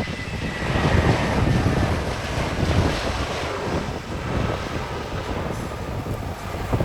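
Jet airliner passing close by: a deep engine rumble with a high whine that falls in pitch during the first second or so, and wind buffeting the microphone.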